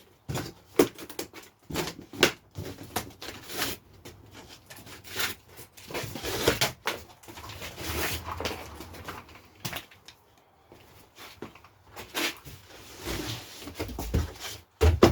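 Cardboard shipping box being opened and rummaged through: rustling and tearing of cardboard with scattered knocks and clunks.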